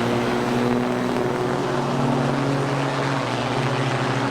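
Big-rig diesel engine running steadily at an even speed, a constant drone without rises in pitch.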